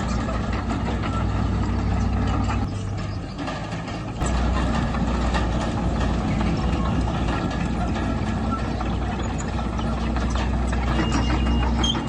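Heavy diesel engine of an earthmoving machine running under load. It eases off about three seconds in and picks back up about a second later.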